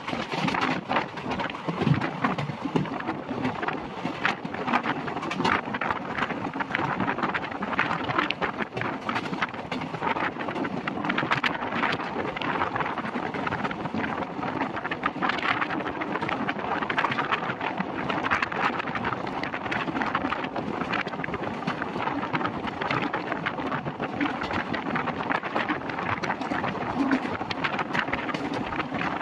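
Passenger train running at speed, heard from an open coach window: a steady rush of wind over the microphone with the clatter of the wheels on the rails.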